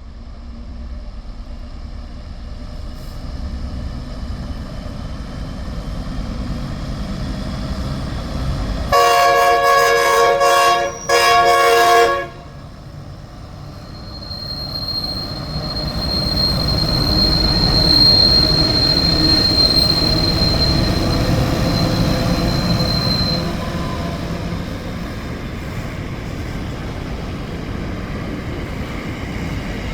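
A train sounds two long blasts on its multi-tone horn, then rumbles closer and past, with a high, steady wheel squeal on the rails for several seconds as the sound peaks.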